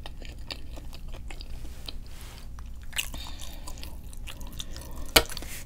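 A person chewing food close to the microphone: a run of small mouth clicks and crunches, with one sharper click about five seconds in.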